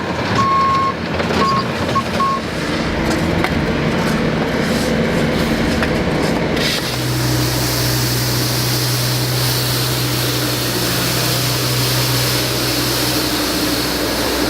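Heavy cleanup machinery at work: a backup alarm beeps a few times in the first couple of seconds. About halfway through, a diesel engine's steady low drone comes in.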